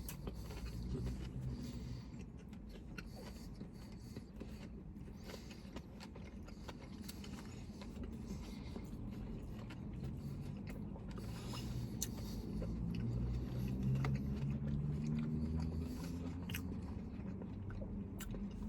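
People eating sandwiches: quiet chewing and small mouth and handling clicks over a steady low hum.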